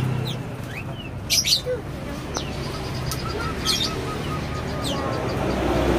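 Several caged birds chirping, with short sharp high calls that are loudest about a second and a half in and again near four seconds, and a run of soft, evenly spaced notes in the middle, over a low hum and faint voices.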